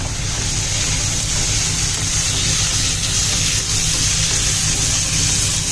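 Capsicum and spice paste frying in hot oil in a pan, a steady sizzle over a constant low hum.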